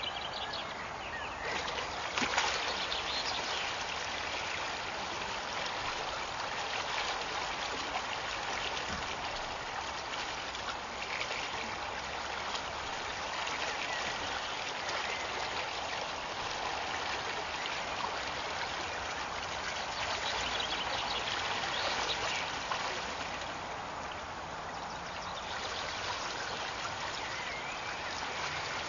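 Rain-swollen water rushing steadily along a drainage channel after heavy rain.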